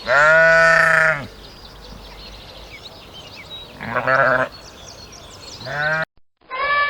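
Sheep bleating three times: one long bleat, then two shorter bleats a few seconds later, over a steady faint background hiss.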